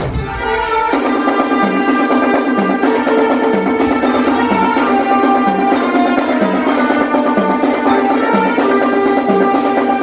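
Drum band playing a tune: a bell-like melody over sustained notes, with a light steady beat about once a second.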